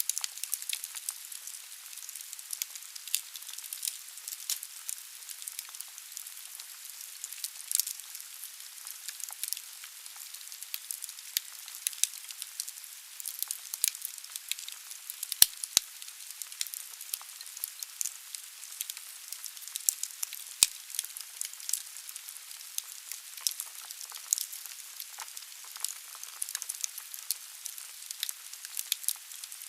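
Wood fire burning in a fireplace: a steady hiss with irregular sharp crackles and pops of the logs.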